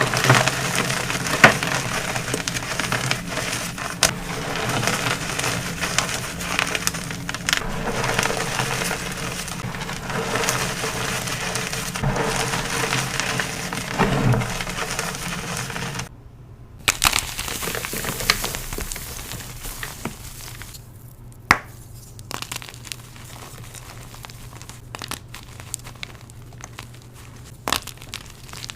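Blocks of gym chalk being crushed and crumbled, a dense run of crunching and crackling. About 16 seconds in it breaks off briefly, then goes on softer with a few scattered sharp cracks.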